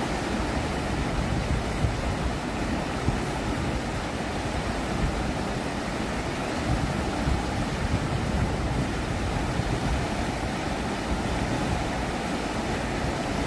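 Fast, turbulent river water rushing: a steady, unbroken noise, strongest in the low end.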